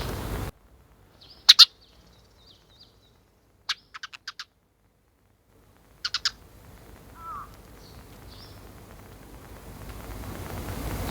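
Sparrow chirping in short, sharp calls: a single chirp, then a quick run of four, then three more, with softer chirps between.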